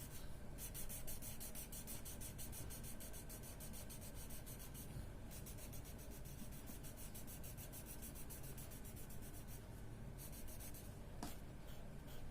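Blue colour rubbed quickly back and forth on paper while colouring in a drawing, with several scratchy strokes a second. The strokes stop briefly about five seconds in and again about ten seconds in.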